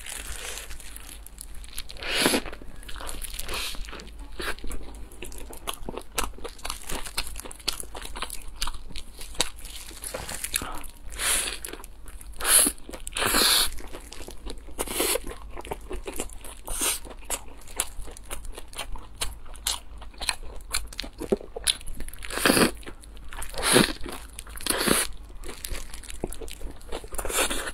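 Close-miked biting and chewing of a soft-bun sandwich with a fried cutlet, cabbage and mayonnaise: a dense run of wet mouth clicks, with louder bites about two seconds in, around the middle, and near the end.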